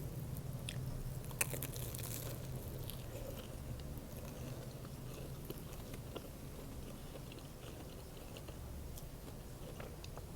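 Close-miked biting and chewing of an egg sandwich, with many small wet mouth clicks and a sharp click about one and a half seconds in.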